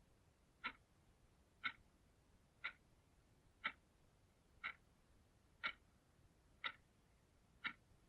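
Clock ticking evenly, one tick a second, each tick a short sharp click with quiet between.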